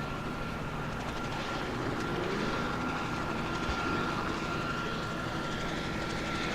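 Aircraft engine noise running steadily, with a steady high whine held throughout and slight swells in the middle.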